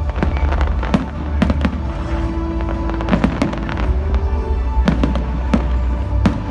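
Fireworks going off in quick, irregular succession: sharp bangs, several a second at times, over music with a steady low bass and held tones.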